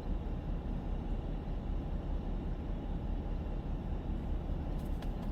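Steady low rumble of a Ford diesel pickup heard from inside the cab while it drives, with road and engine noise and no distinct events.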